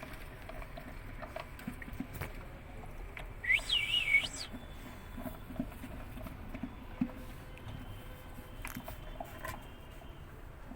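Bullmastiff puppy giving one short, high, wavering whine about a third of the way in, over scattered soft clicks and knocks.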